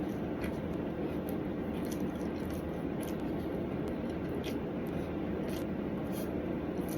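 Steady room background noise with a few faint, short clicks scattered through it.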